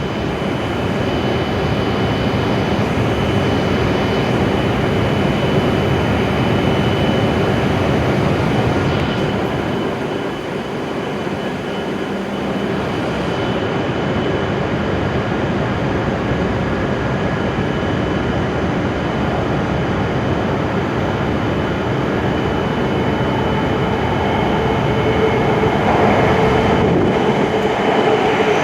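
W7-series Shinkansen train running: a steady rolling rumble with a faint, steady high whine over it.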